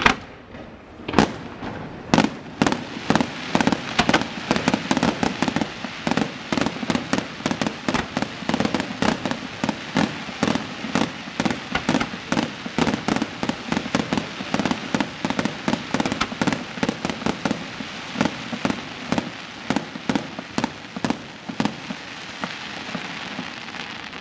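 Aerial firework shells bursting in a dense barrage, several bangs a second, starting about a second in and thinning out near the end.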